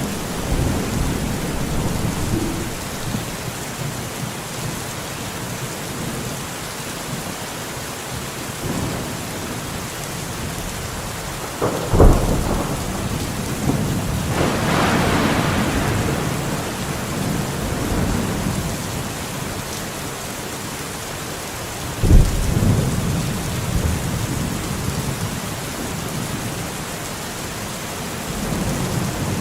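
Steady rain falling in a forest, with thunder: two sharp cracks, about twelve seconds in and again about ten seconds later, each trailing off into a low rumble.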